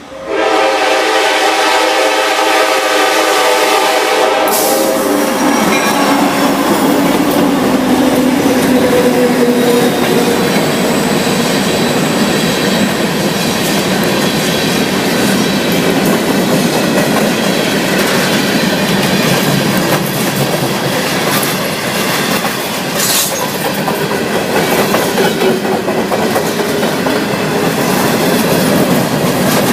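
A freight train's locomotive air horn held as one chord for about five seconds, then the EMD diesel locomotives (GP59s and an SD40-2) and freight cars rolling past close by, with steady wheel clatter on the rails and an occasional clank.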